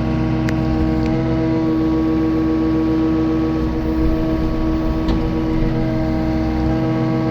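Yanmar four-cylinder diesel engine of a New Holland E60C excavator running at a steady speed, with a few faint clicks.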